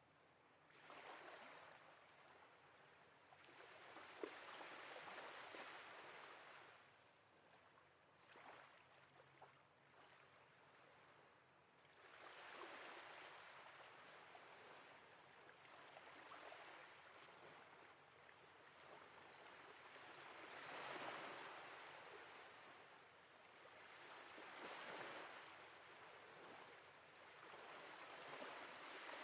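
Soft sea waves washing in and drawing back, swelling and fading every few seconds.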